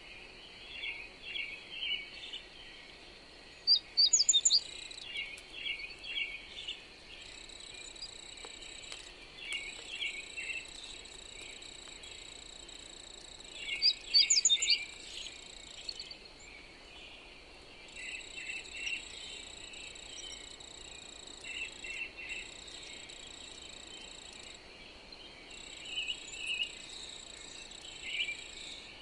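Several birds chirping and singing over a steady high-pitched insect drone. A louder, quick phrase of very high notes comes three times: about 4 seconds in, about 14 seconds in and at the very end. A faint steady hiss of wind lies beneath.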